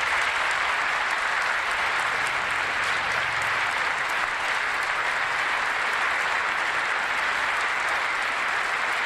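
Dense, steady crowd applause.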